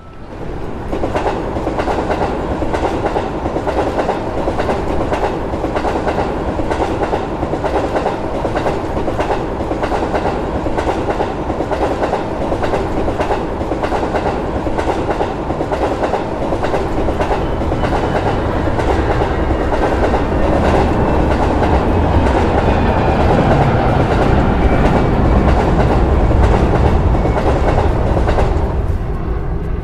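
A train passing over a crossing: a steady rush of wheels on rails with rapid clickety-clack over the rail joints. It starts suddenly, grows somewhat louder in the second half and cuts off abruptly at the end.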